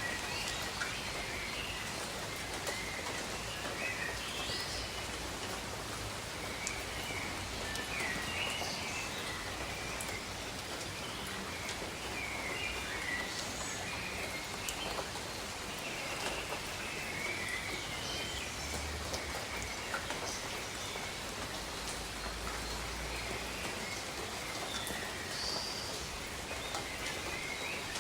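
Steady rain falling on foliage, with scattered drips, and small birds chirping briefly and repeatedly in the background.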